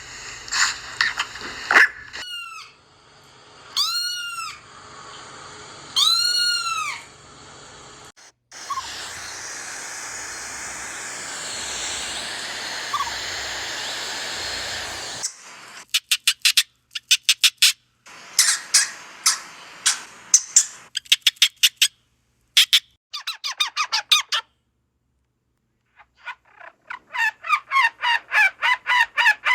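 A string of short animal calls from several different clips. First come a few arched, rise-and-fall calls about two seconds apart, then a stretch of steady hiss. After that come clusters of rapid high chirps or clicks, and near the end a fast run of repeated chirps.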